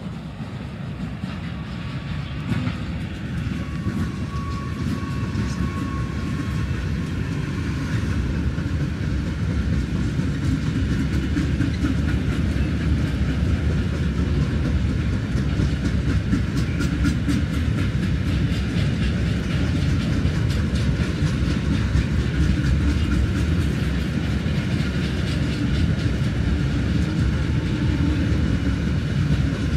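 A train rolling past on the rails: the rumble of wheels grows louder over the first ten seconds or so, then holds steady, with a run of quick rhythmic clicks from the wheels over the track in the middle.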